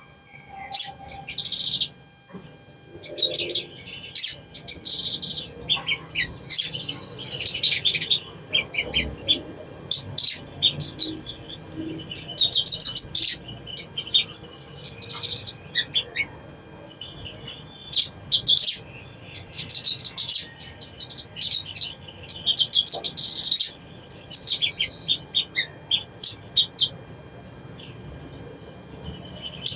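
Sogon (sogok ontong, little spiderhunter) singing: rapid, high, twittering chirp phrases of a second or two each, repeated in bursts with short pauses between them, used as a lure call to get other sogon to sing.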